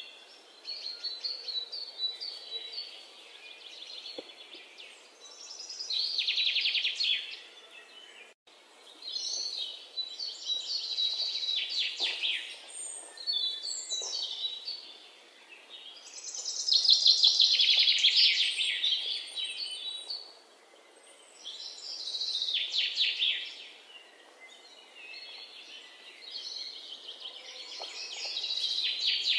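Birds chirping and trilling in rapid, high-pitched phrases that come and go every few seconds, the loudest about two-thirds of the way through.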